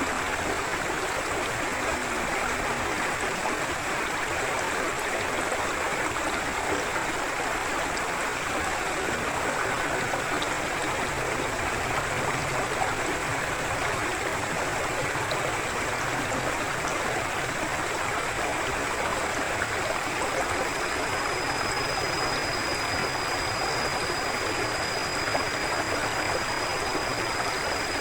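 Forest river flowing steadily: a continuous, even rush of water.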